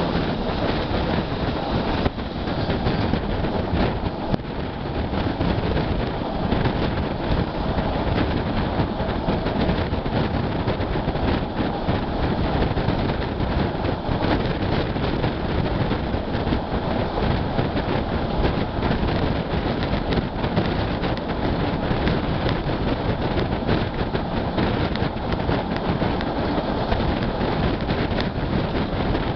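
Vitória–Minas Railway passenger train running steadily along the line, heard at an open carriage window: a continuous rumble and rattle of wheels on rail with many small clicks.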